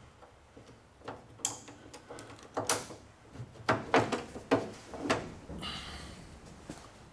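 Irregular knocks and clicks of hard objects being handled, about eight in all and loudest around the middle, with a brief scrape a little before the end.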